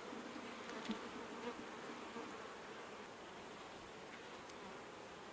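Honeybees buzzing steadily around an opened Langstroth hive box, with a couple of faint knocks about a second in.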